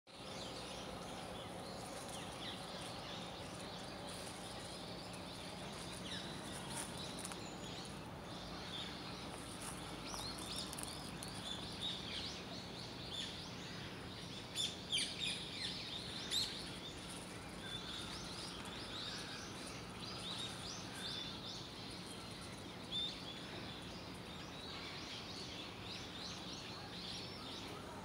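Small birds chirping and twittering in short high calls, with a louder flurry about halfway through, over a steady low hum of background noise.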